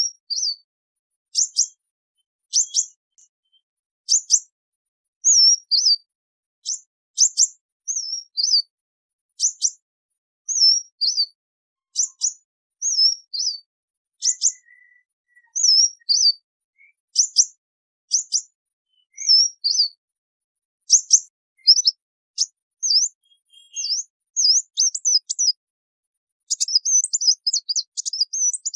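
Sunbird giving its flock-gathering call: short, high, sharp chip notes, each a quick flick in pitch, repeated about once a second, coming faster in the later part and running into a rapid burst of calls near the end.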